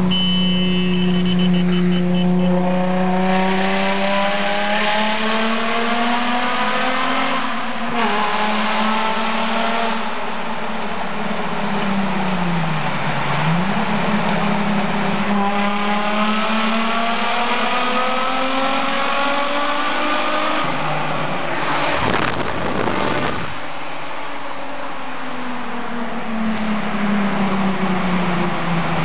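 Nissan 350Z's 3.5-litre V6 through a Topspeed Pro 1 aftermarket exhaust, pulling hard through the gears. Its pitch climbs in long sweeps and drops back at each shift. A brief rush of noise comes about three-quarters of the way through, and the revs fall away near the end as the car comes off the throttle.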